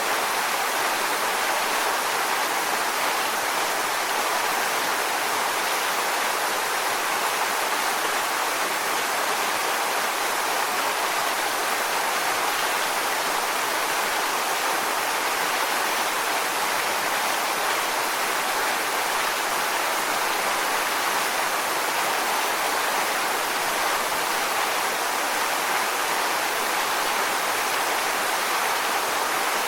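Waterfall: a steady, even rush of falling water, with little deep rumble.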